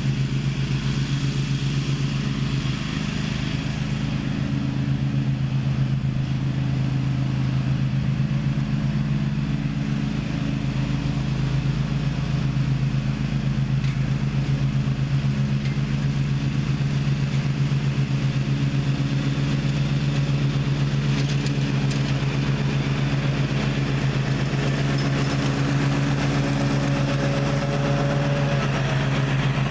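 Gravely ZTx 42 zero-turn mower running at a steady, even engine note with the blades mulching pine straw and pine cones, with no clunks or bangs from the cones.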